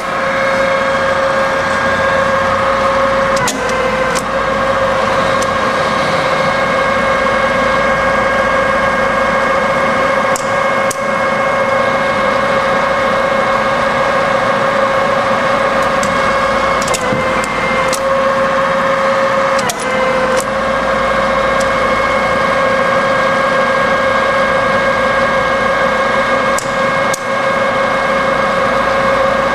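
Cincinnati No. 12 rise-and-fall milling machine running through its automatic cycle: a steady mechanical whine of several tones. It is broken by brief dips in pitch three times and by a few sharp clicks.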